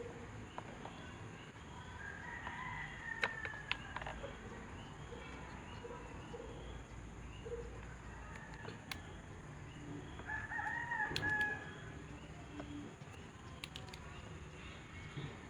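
A rooster crowing twice, a few seconds in and again near the two-thirds mark, over a low steady background with several sharp clicks.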